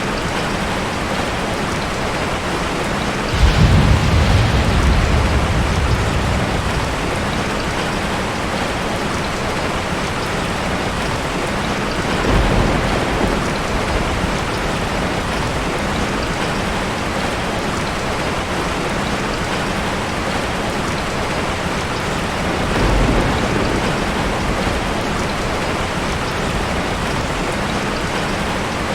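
Heavy rain falling steadily. About three and a half seconds in, a loud clap of thunder rumbles off over a few seconds, and two fainter rolls of thunder come near the middle and near the end.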